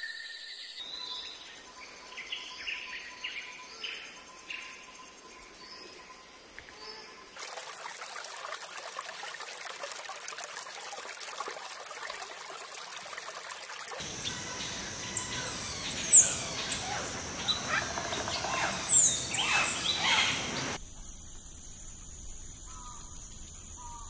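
Birds calling in a string of spliced recordings: short repeated chirps, then a stretch of steady hiss, then louder quick sweeping chirps and calls past the middle, fading to a faint steady tone near the end.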